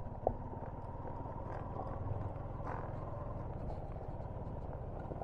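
Steady low rumble of a vehicle running on the road, with a faint steady whine and a single short click about a third of a second in.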